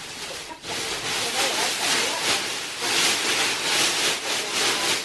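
Rustling, rubbing noise in uneven swells, starting about half a second in.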